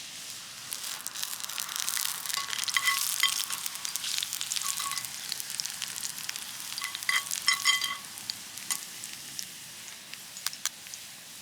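Food frying and sizzling in a pan over a fire, swelling after about a second and easing near the end. It is being stirred, with two short spells of a high metallic squeak.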